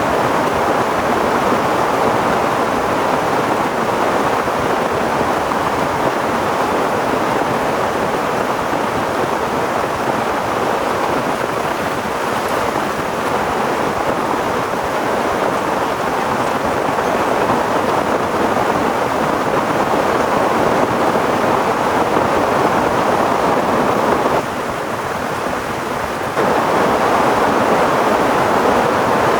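Heavy rain falling in a steady downpour, briefly a little quieter for about two seconds near the end.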